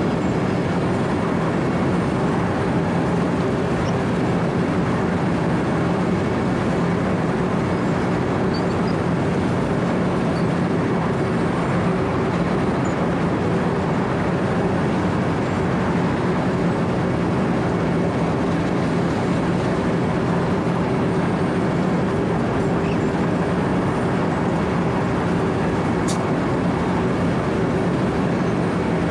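Wirtgen W 120 CFi cold milling machine running steadily under load: its diesel engine hums constantly beneath the grinding of the cutting drum working through the road surface.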